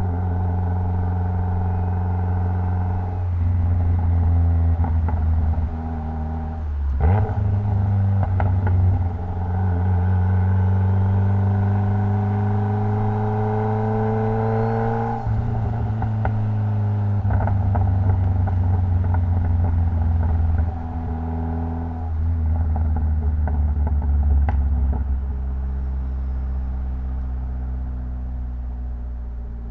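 Mitsubishi Lancer Evolution X's turbocharged 2.0-litre four-cylinder engine under way: its note climbs steadily in pitch for several seconds under acceleration, drops abruptly at a gear change, then settles into steady cruising that eases off near the end.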